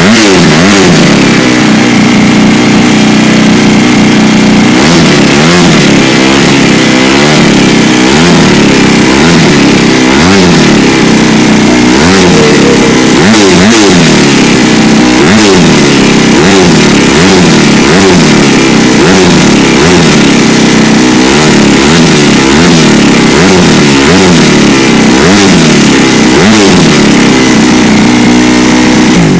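Four-stroke race dirt bike engine running loud just after a kick-started cold start on choke, blipped again and again with the throttle so the revs rise and fall roughly once a second.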